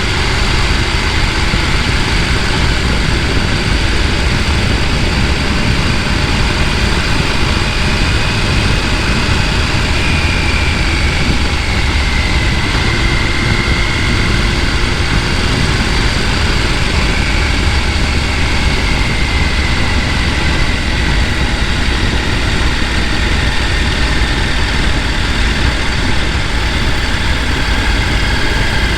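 Mountain stream rushing over rocks, a loud, steady roar of water.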